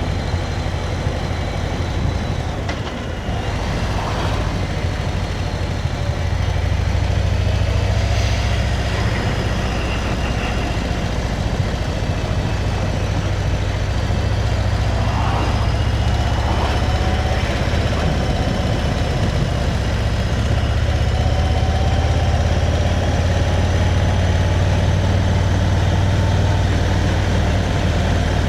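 Motorcycle riding along: a steady low rumble of engine and wind, with the engine's pitch slowly rising and falling as the speed changes.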